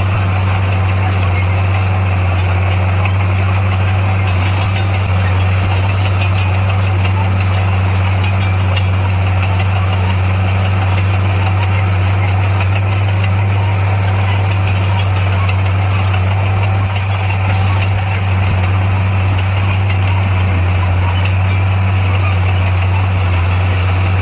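Diesel engine of heavy earthmoving equipment running at a steady, unchanging speed: a loud, constant low drone with no revving.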